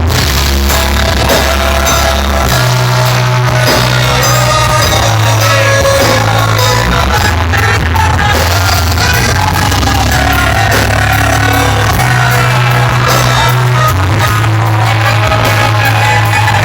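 A band playing loud rock-style music with singing: a bass holds long notes that change every few seconds under a steady drumbeat, with a voice singing over it.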